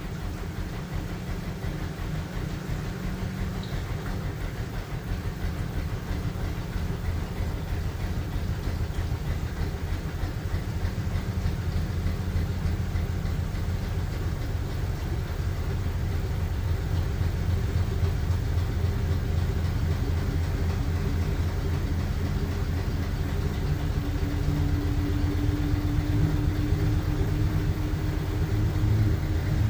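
LG washing machine running mid-cycle: a steady low motor hum that grows gradually louder, with a higher motor tone coming in near the end.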